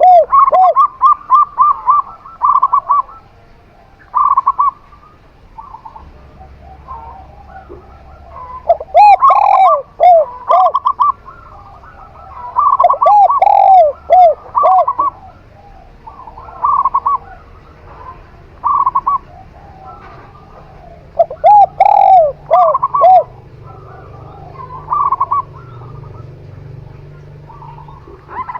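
Zebra dove (perkutut) and spotted dove (tekukur) cooing. Phrases of short rolling coos at two different pitches, one lower and one higher, come every couple of seconds and sometimes overlap.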